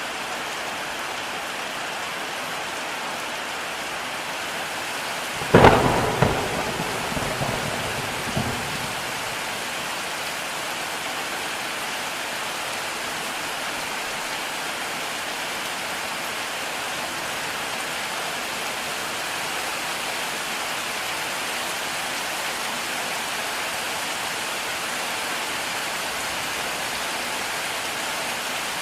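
Heavy rain falling steadily, with a single sharp thunderclap about five seconds in that crackles and rumbles away over the next three seconds.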